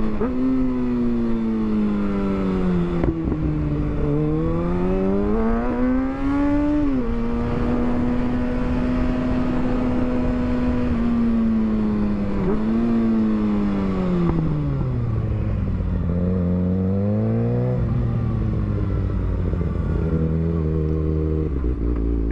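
Sport motorcycle engine under way, revving up and dropping in pitch at gear changes, holding a steady speed for a few seconds and then slowing, with wind rumble on the microphone.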